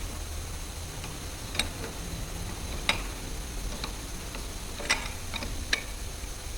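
A handful of sharp, irregularly spaced clicks, four of them louder than the rest, over a low steady hum.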